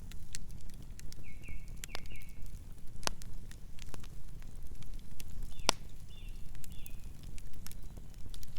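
Campfire burning: wood crackling with scattered sharp pops, the loudest a little over halfway, over a steady low rumble of the flames.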